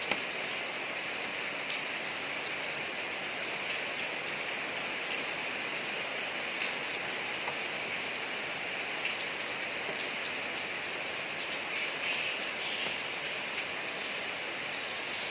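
Steady rain falling on a street: an even hiss with faint scattered drop ticks.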